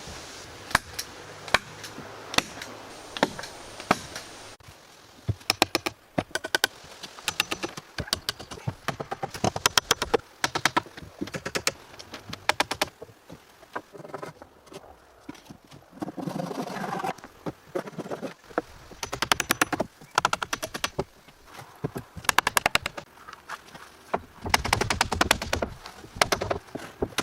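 Hammer driving nails into wood: sharp strikes in quick runs of several a second, with short pauses between runs.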